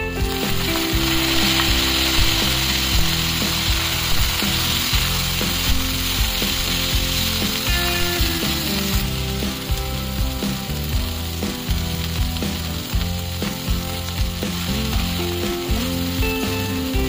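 Broccoli florets sizzling in hot oil in a frying pan, with a wooden spatula stirring and scraping them around the pan. The sizzle is strongest for the first several seconds after the broccoli goes in, then eases.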